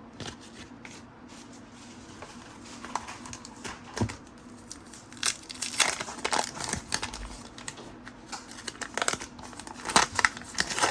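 1990 Fleer basketball trading cards being handled and slid apart by hand: irregular soft rustles and flicks of card stock, sparse at first and busier from about four seconds in.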